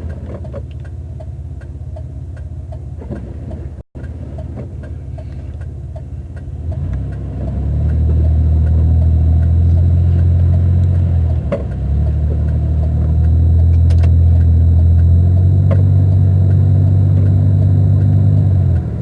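Car engine and road rumble heard inside the cabin: a steady low rumble, then from about seven seconds in a much louder low drone as the car gets moving, with a short dip a few seconds later. The sound cuts out for an instant near four seconds in.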